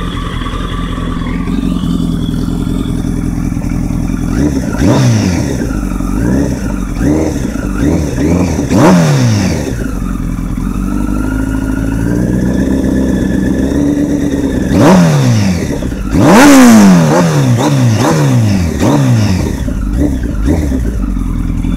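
2005 Kawasaki ZX-10R's 998 cc inline-four idling, then revved with about ten quick throttle blips, each a sharp rise and fall in pitch. Halfway through it gets one slower, longer rev, and the loudest blip comes about three quarters of the way through.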